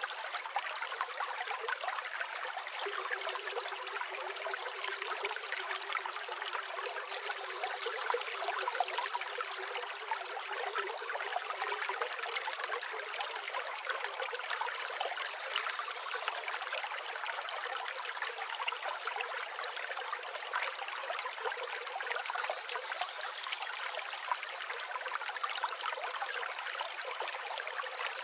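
River water flowing steadily, a continuous even rush with no deep rumble.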